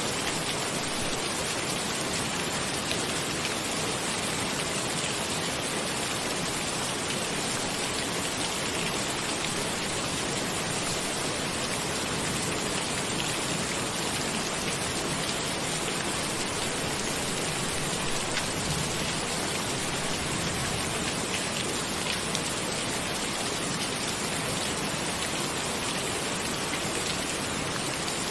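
Steady rain: an even hiss with faint scattered drops ticking through it.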